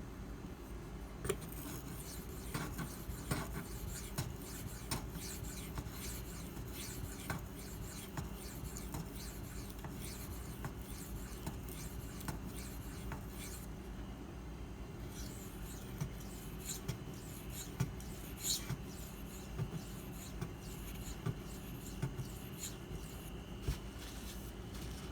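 Steel knife blade stroked back and forth across a 400-grit Nano Hone whetstone: a soft rubbing with scattered small clicks. The Maxamet blade skates over the slick stone, burnishing the steel rather than cutting it.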